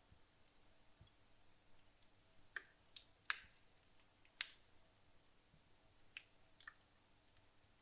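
Burning wood logs in a fireplace crackling quietly: a handful of sharp, irregular pops, the loudest about a third of the way in.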